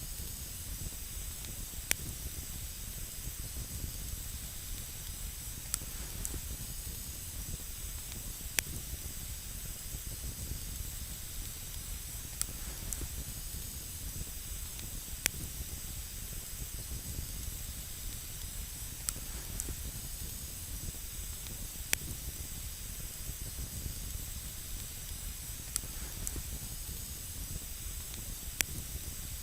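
Wood campfire burning with a steady hiss and a low rumble. Single sharp crackles pop out every two or three seconds.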